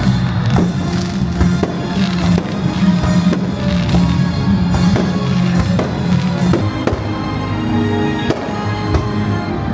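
Fireworks going off in a rapid, irregular series of sharp bangs and cracks, over music playing.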